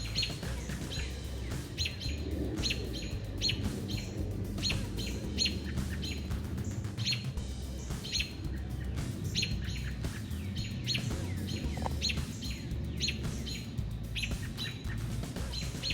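Small birds calling over and over, short sharp calls about one to two a second, as they scold and mob a perched hawk. A low background rumble runs underneath.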